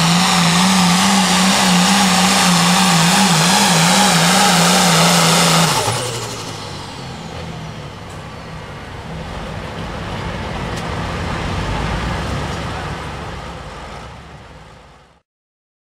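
Pro Farm pulling tractor's engine running flat out under load, a steady high drone, then falling off abruptly about six seconds in as the throttle is released. A lower engine rumble follows, swelling briefly and then fading away.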